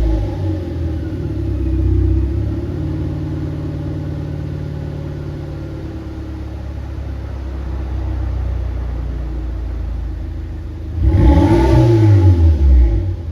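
2012 Daihatsu Copen's 660 cc turbocharged four-cylinder running through a Sacrum aftermarket silencer, idling steadily. About eleven seconds in it is revved once, the note rising quickly and loudly before falling back to idle.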